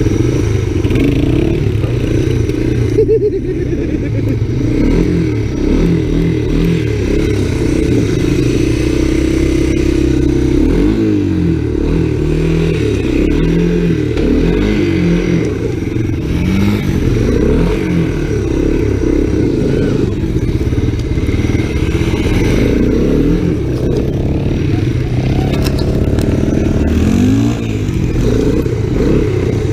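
Honda ATC250SX three-wheeler's single-cylinder engine running continuously, revving up and down again and again while the machine spins donuts on ice.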